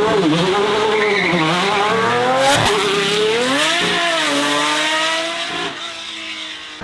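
Hypercar engine under hard acceleration, its pitch climbing and then dropping sharply twice at gear changes, fading toward the end.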